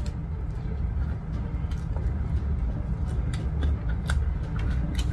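Close-up eating sounds: a person chewing a bite of pepperoni pita pizza, with short wet mouth clicks scattered throughout over a steady low rumble.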